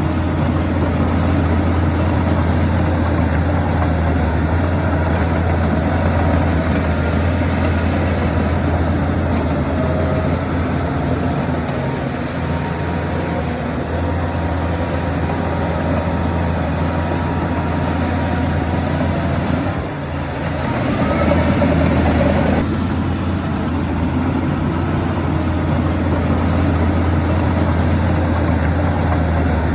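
Heavy diesel engine of earthmoving machinery running steadily under load. It drops briefly about two-thirds of the way through, then picks up with a rising note before settling back.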